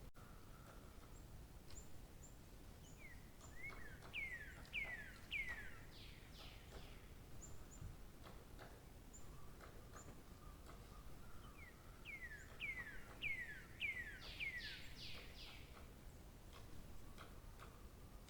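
A songbird singing two phrases about eight seconds apart, each a quick run of about five down-slurred whistled notes, over a faint outdoor background with a few short high chips from other birds.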